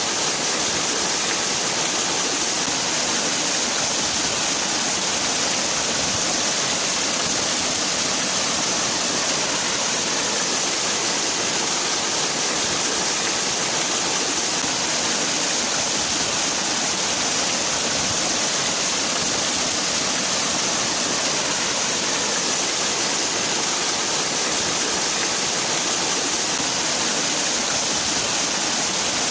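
Waterfall: water falling and splashing in a steady, unbroken rush, strongest in the hiss range.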